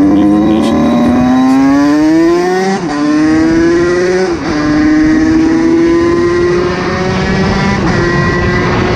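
Motorcycle engine accelerating through the gears: the pitch climbs, drops sharply at an upshift about three seconds in and again about a second and a half later, then rises slowly and settles into a steady run.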